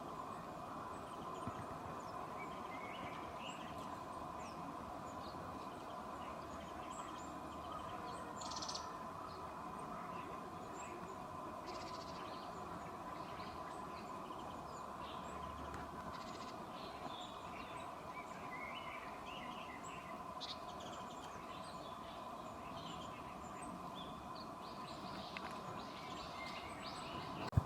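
Wild small birds giving scattered short, high calls over a steady background hum.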